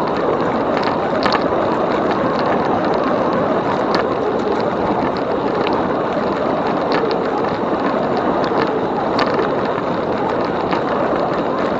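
Riding an e-bike: a steady rush of tyre and wind noise, with scattered small clicks and ticks from the rolling wheels.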